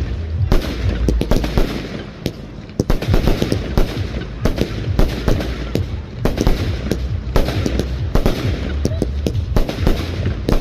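Fireworks display going off: a rapid string of sharp bangs and crackling reports, several a second, over a low rumble.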